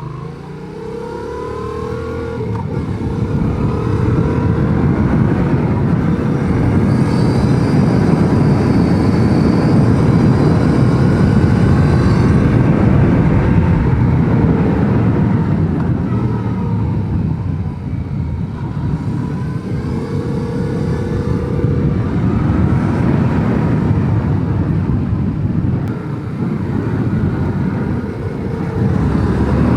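Yamaha MT-07's parallel-twin engine running under way on a ride, building over the first few seconds and then holding steady, with a few gliding changes in pitch as the revs change.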